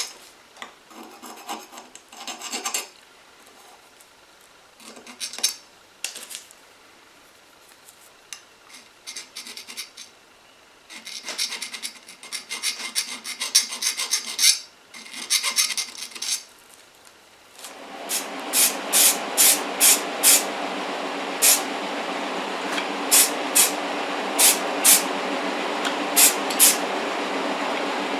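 Small hand file rasping in short groups of strokes on the die-cast zinc-alloy body of a Dinky Toys Austin Taxi, dressing away casting flash around the door openings. About two-thirds of the way through a steady hiss starts, broken by short sharp bursts repeating every half second to second.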